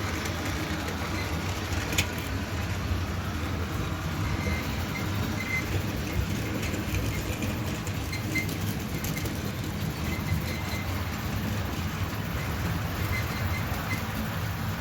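OO-gauge model train running on the layout's track: a steady rumble of wheels on rails, with a few sharp clicks, the loudest about two seconds in.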